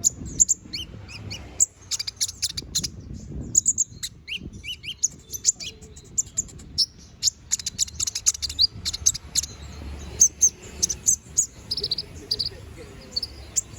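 Domestic canary singing a fast, unbroken song of rapid high chirps and short trills.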